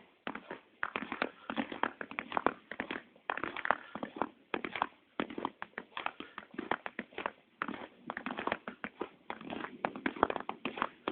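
Cold December snow creaking and crunching underfoot, in repeated crackly bursts about once a second.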